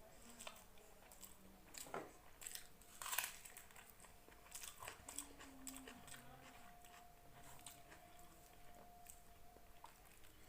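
Faint chewing and biting, with small crunchy, wet mouth clicks from eating rice and chicken curry; the loudest bites come about two and three seconds in.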